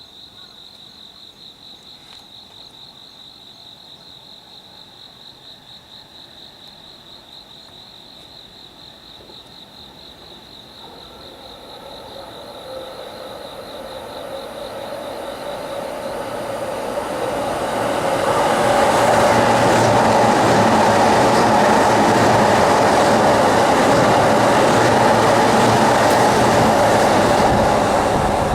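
An insect trills steadily with a quick pulsing, then a JR East E257 series electric train approaches, its running noise growing over several seconds, and goes past loudly through the second half, drowning the insect out.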